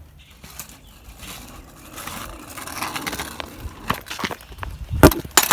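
Scraping and rustling that builds up over a couple of seconds, then several sharp knocks, the loudest about five seconds in.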